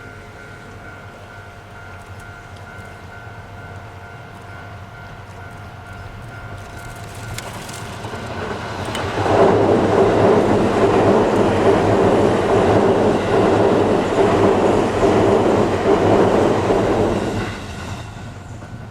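JR East E655-series electric train passing at speed: it grows louder from about six seconds in, passes loudly with wheels rumbling on the rails for about eight seconds, then falls away near the end.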